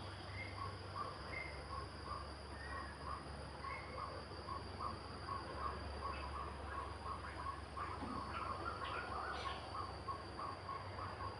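Outdoor nature ambience: a short call repeated over and over, about two a second, with a few higher chirps, over a steady high insect drone.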